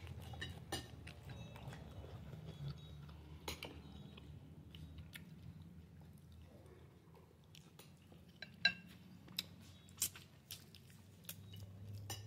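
Quiet chewing and eating sounds close to the microphone, with scattered sharp clicks and taps over a steady low hum.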